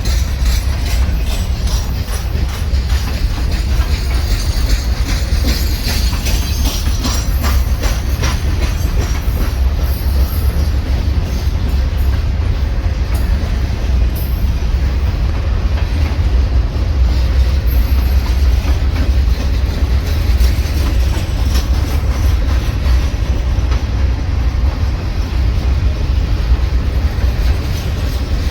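Train cars rolling past on the track, a steady heavy rumble with repeated clicking of wheels over the rail joints, thicker in the first half.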